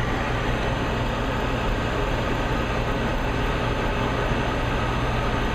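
High-efficiency gas furnace running just after ignition, its inducer motor and freshly lit burners making a steady hum and rushing noise.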